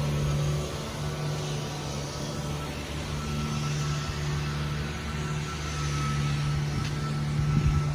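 Toyota 3MZ-FE 3.3 L V6 idling steadily with the hood open, shortly after a cold start. A thin steady whine joins about three seconds in, and there are a few brief knocks near the end.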